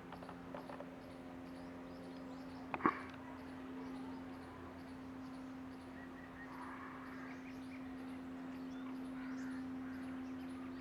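Faint outdoor ambience: a steady low hum, a faint regular high ticking like an insect, a few soft chirps, and one sharp click about three seconds in.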